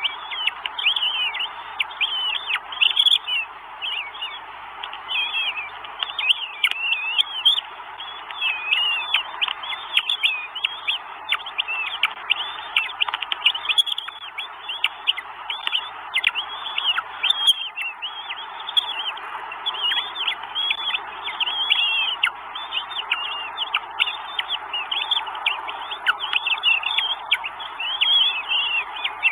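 Northern goshawk nestlings begging: a dense, unbroken run of short high cheeps, several a second, as the chicks are fed at the nest.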